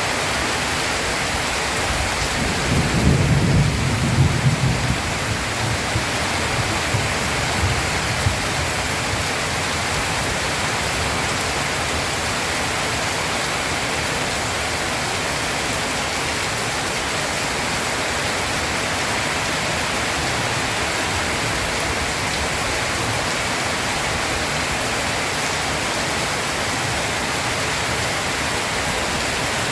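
Heavy steady rain, with a rumble of thunder a few seconds in that rolls on and fades out.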